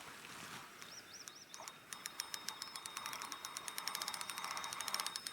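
Fishing reel clicking rapidly and evenly, about eight to ten clicks a second, while a hooked fish or snag is on the line. A short, wavering bird chirp comes about a second in.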